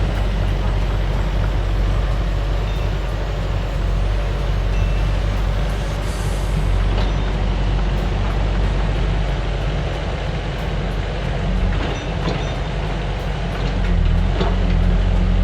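Yanmar SV100 excavator's diesel engine running steadily under load, with a few sharp knocks near the end.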